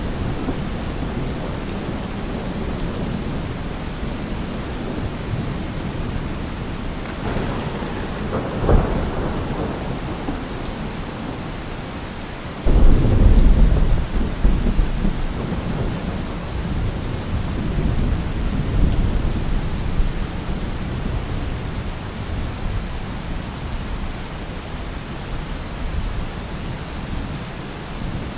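Thunderstorm: steady heavy rain with rolling thunder. A rumble about a quarter of the way in ends in a sharp crack, and a little before halfway a sudden loud thunderclap breaks and rumbles on for several seconds.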